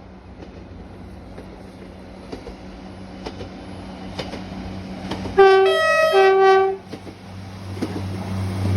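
Diesel passenger train approaching, its engine rumble growing louder. About five seconds in it sounds a two-tone horn in three notes, low, high, low, lasting about a second and a half.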